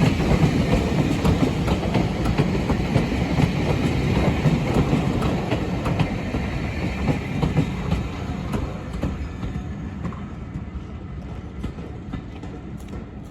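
A train hauled by Class 37 diesel locomotives running at speed, with a heavy rumble and wheels clicking over the rail joints. The sound fades steadily through the second half as the train moves away.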